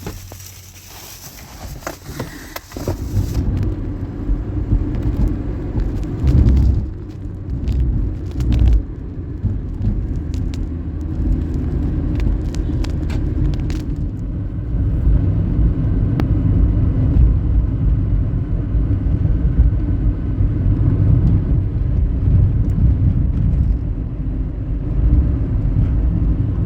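A car driving, with a steady low rumble of engine and road noise that comes up sharply about three seconds in.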